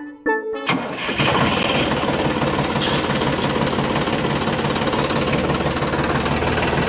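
A home-built tractor's engine running steadily, coming in about a second in after a few notes of background music.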